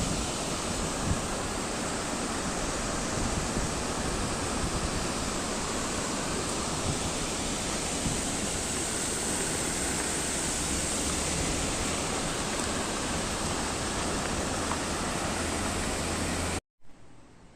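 Steady, unbroken rush of flowing water. It cuts off suddenly about a second before the end, leaving a much quieter background.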